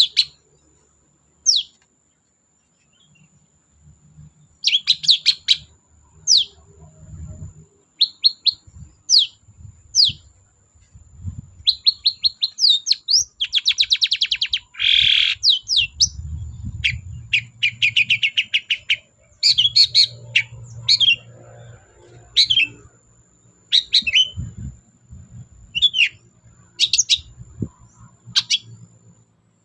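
A long-tailed shrike (cendet) singing a lively, varied song: sharp, clipped calls mixed with fast rattling trills and chatter. The song is busiest from about twelve to twenty seconds in.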